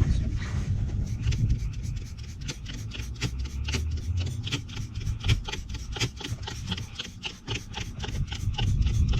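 Rapid, even rasping strokes, about five a second, over a steady low rumble.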